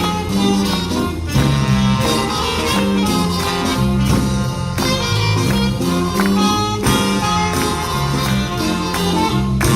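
Big band playing a jazz number, with a walking bass line under horns and drums.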